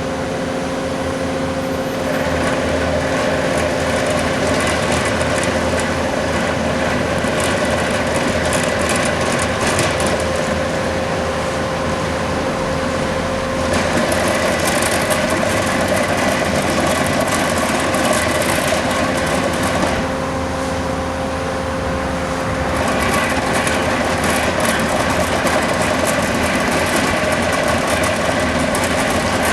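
Bobcat skid steers working a road-milling job, the cold planer and sweeper attachments running: a steady machine drone with a constant tone under it. A rough grinding noise swells about two seconds in and grows louder near the middle. It eases for a couple of seconds about two-thirds through, then comes back.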